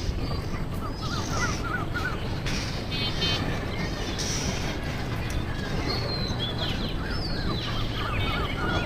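Several birds chirping and calling over a steady low rumble, with short warbled phrases and quick rising whistles scattered through.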